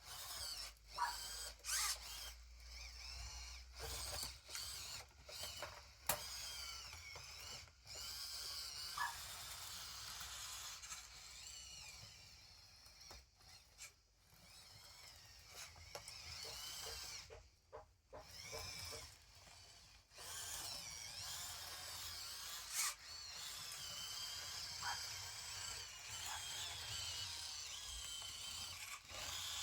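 Small electric motors and gearboxes of radio-controlled construction models whining in repeated stop-start bursts. The pitch wavers up and down as the speed changes.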